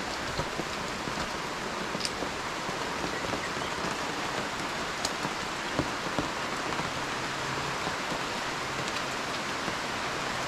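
Steady hiss of falling water, with a few faint sharp ticks.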